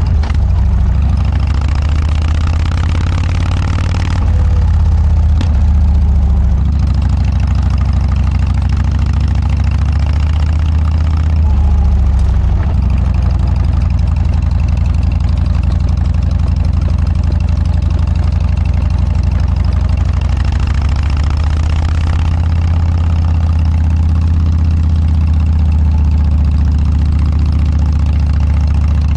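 Harley-Davidson Dyna's V-twin engine running steadily through a Motor Stage aftermarket muffler, a loud, deep exhaust note.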